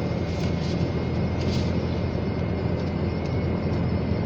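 Steady low engine hum of a vehicle, with an even wash of noise and no distinct events.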